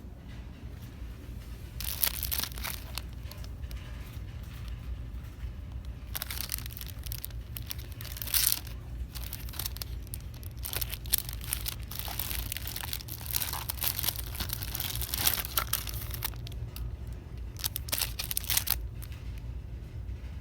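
Crinkling and rustling of plastic packaging being handled, in irregular bursts, over a steady low hum.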